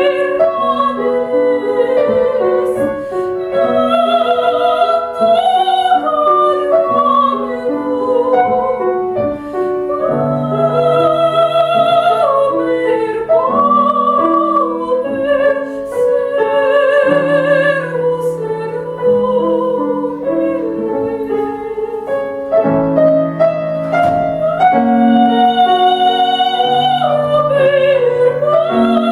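A woman singing a classical art song in operatic style, with wide vibrato on long held notes, accompanied by a grand piano.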